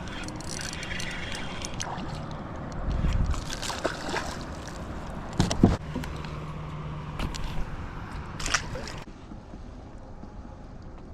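Water sloshing and gurgling, broken by a few sharp knocks and clicks, the loudest about five and a half seconds in; the sound drops to a quieter hiss about nine seconds in.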